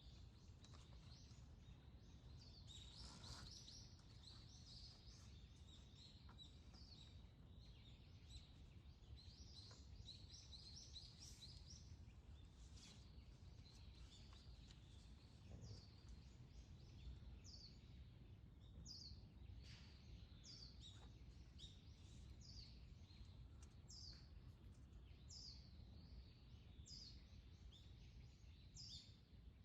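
Faint birds calling over a low, steady outdoor rumble: a scatter of short, high chirps in the first half, then a bird repeating a short call that falls in pitch, about once every second or so.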